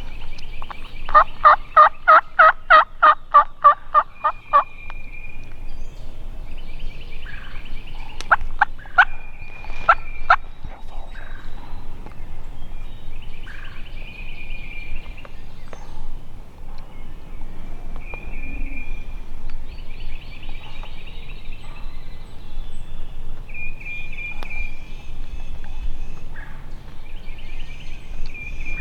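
Turkey yelping: a loud, even series of about fifteen notes, roughly four a second, starting about a second in. It is followed a few seconds later by a handful of short, sharp calls. A high, fast trill recurs every few seconds in the background.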